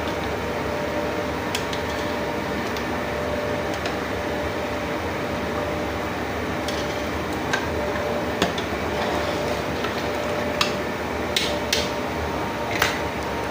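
Steady hiss and faint hum of a pot cooking on the stove, with a few light clicks of utensils in the second half.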